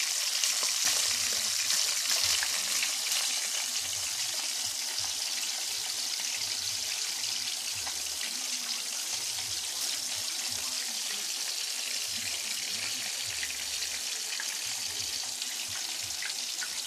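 Pork chop frying in hot grease in a skillet: a steady sizzle with fine crackling.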